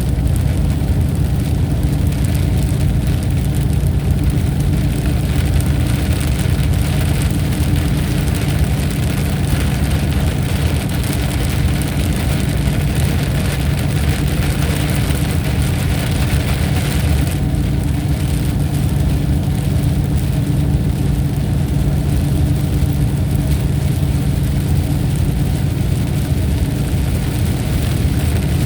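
Thunderstorm ambience: a steady, dense hiss of rain over a constant low rumble. The higher hiss thins slightly about two-thirds of the way through.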